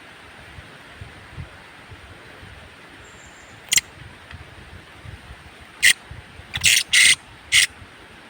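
Colasisi (Philippine hanging parrot) giving about five short, shrill, high-pitched calls through the second half, over wind noise on the microphone.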